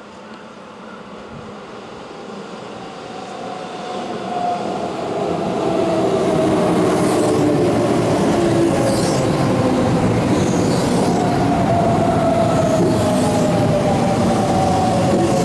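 Keihan 9000 series electric train arriving and braking into the platform. Its running noise grows louder over the first six seconds as it approaches, then stays steady as the cars roll past. A whine slowly falls in pitch as the train slows, with short high hissing squeals every second or two.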